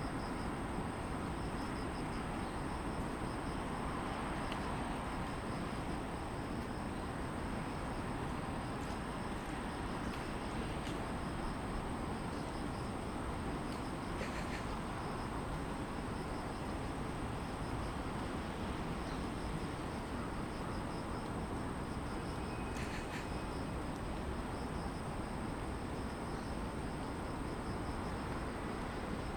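Steady distant city traffic hum with grassland insects singing over it: one high unbroken note and a fast pulsing trill, with a few faint clicks.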